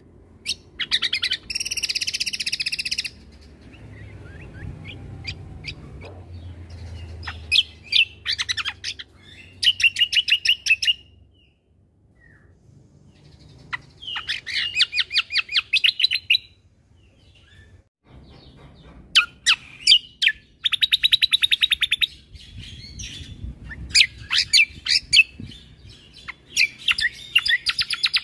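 Cucak kombo songbird singing in repeated bursts of rapid-fire chirps and trills, each burst one to three seconds long with short pauses between. A faint low hum runs underneath.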